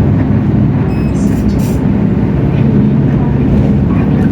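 Hino J08E-VN 7.7-litre inline-six diesel engine of a Hino RK8JRVA city bus running under way, heard from inside the bus as a steady low drone. The engine note shifts slightly about three seconds in.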